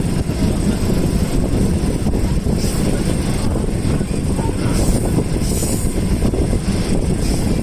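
Passenger train running along the track: a steady, loud rumble of wheels on rails with rushing noise and no clear breaks.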